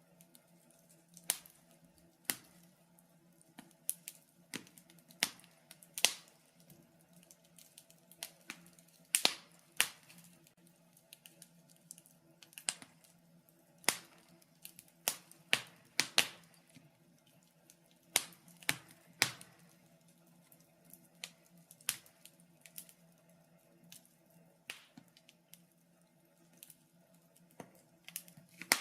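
Wood fire crackling in a fireplace: irregular sharp pops and snaps, about one a second and some louder than others, over a faint steady low hum.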